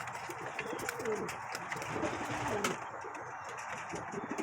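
Pigeons cooing: several low coos, each falling in pitch, spread through the moment, with scattered small clicks and scuffs.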